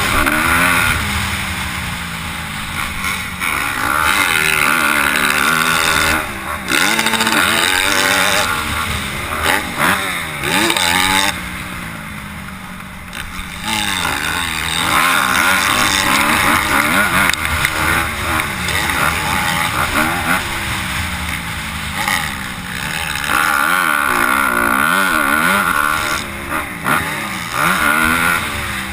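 Motocross bikes running on a track, their engines revving up and falling off again and again as the riders accelerate, shift and back off. The sound swells and fades as bikes come near and move away, with a quieter spell about halfway through.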